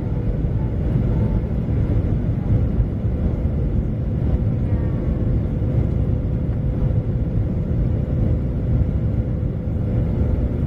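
Steady cabin noise inside a Boeing 737 airliner: a constant deep rumble of engines and airflow, with a steady hum running through it.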